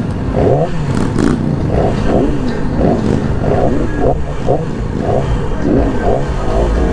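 Motorcycle engines revving up and down over and over in quick throttle blips, the pitch rising and falling several times a second.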